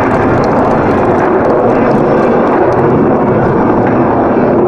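Loud, steady jet noise from a formation of F/A-18 Hornets flying the vertical break.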